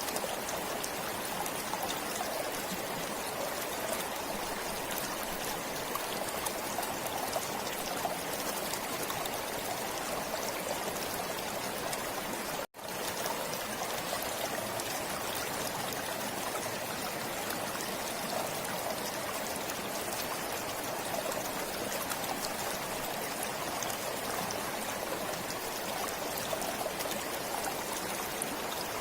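Forest stream flowing steadily, a continuous rush and trickle of water. About halfway through, the sound cuts out for an instant and resumes.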